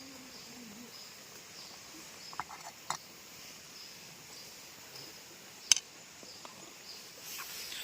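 Faint insect chirping with a few scattered small clicks, and one sharp, loud click a little before six seconds in.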